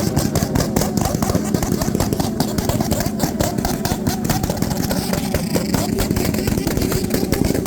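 Motorcycle engines running steadily, with a dense crackle over them and voices in the background.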